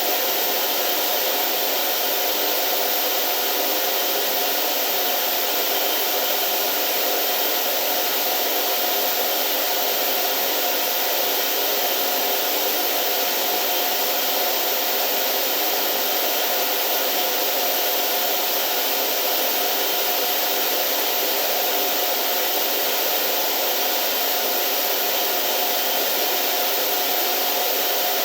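Steady, unchanging machine noise: a loud even whoosh with a faint constant hum running through it.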